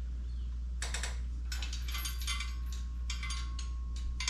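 Bursts of light metallic clicking and rattling from metal parts of a transmission jack being handled during assembly, starting about a second in, over a steady low hum.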